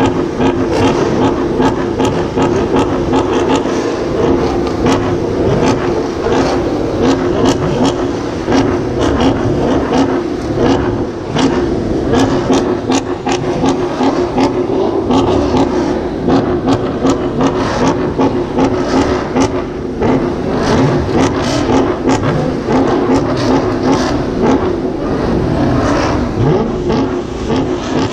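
Car engine running steadily with road noise, as heard on the move, with many short clicks and knocks throughout.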